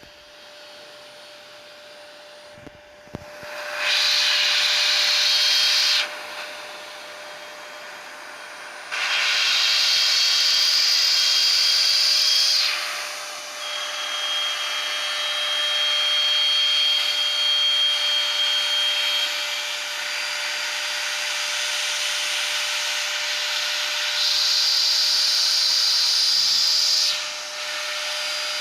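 Wood CNC router running with a steady spindle whine. The noise rises sharply in three stretches of a few seconds each as the bit cuts into the wood.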